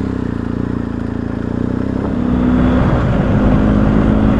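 BMW motorcycle-and-sidecar engine running steadily, then revving up about two seconds in as the outfit pulls away.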